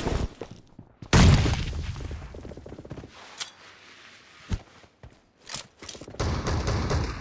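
Video game gunfire: a loud shot or blast about a second in that dies away over a couple of seconds, a few scattered single shots, then a burst of rapid fire near the end.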